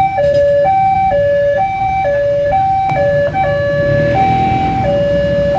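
Electronic two-tone hi-lo siren, alternating between a higher and a lower pitch about every half second, over a low rumble. The alternation falters briefly about four seconds in with a longer high tone.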